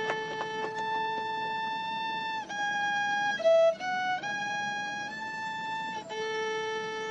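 Violin playing a slow melody of long held notes that step up and down in pitch.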